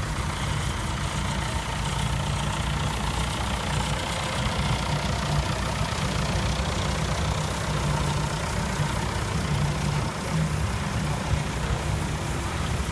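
Tractor engines running steadily at low revs, a constant low rumble.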